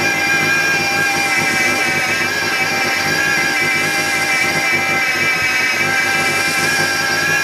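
Miele Complete C3 vacuum cleaner motor running steadily with a loud, many-toned whine that sounds like a sawmill. The owner takes it for a faulty motor that needs changing.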